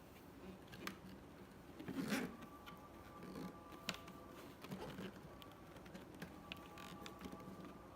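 Faint handling noises from a vacuum cleaner's plastic body: scattered light clicks and a brief rustle about two seconds in.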